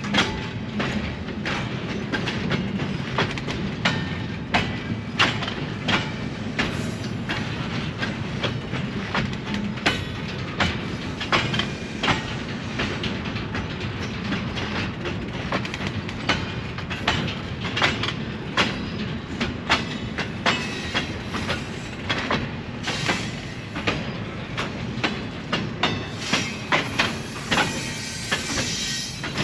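A train rolling past with a steady low rumble and repeated clickety-clack of its wheels over rail joints.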